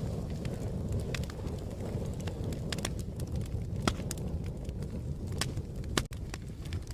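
Wood fire crackling: a steady low rumble of burning with irregular sharp pops and snaps, two louder pops about four and six seconds in.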